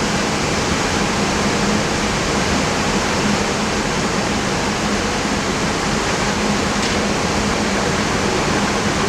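Steady rushing cockpit noise of an Airbus A320 in flight on its descent and approach: airflow and air-conditioning, with a low steady hum underneath.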